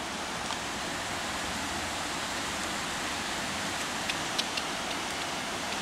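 Waterfall rushing in a steady, even hiss, with a few faint clicks about four seconds in.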